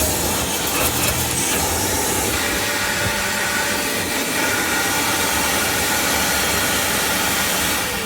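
Vacuum cleaner running steadily with a loud rushing hiss, switched off at the very end so its motor starts to wind down.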